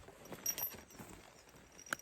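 Irregular light knocks and clicks, with a sharper click about half a second in and another near the end.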